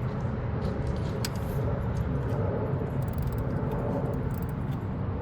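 Light metallic clicking and clinking of a hand tool working a bolt loose, in a quick cluster about three seconds in, over a steady low background rumble.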